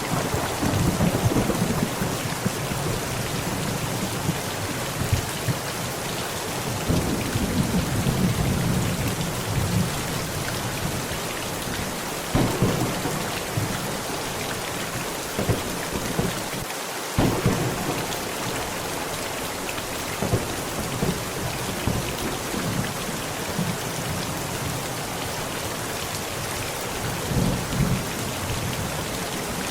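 Heavy rain pounding steadily on a tent, with thunder rolling in low rumbles that swell at the start, again several seconds in and near the end, and a few sharper cracks in between.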